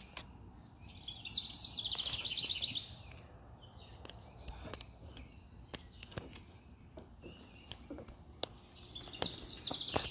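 A songbird singing two phrases, each a quick run of high repeated notes that falls in pitch, about a second in and again near the end.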